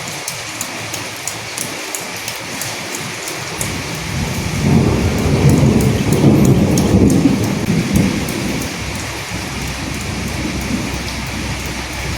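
Steady rain with sharp ticks of drops striking a surface. About four seconds in, a low roll of thunder swells, rumbles for a few seconds and fades out.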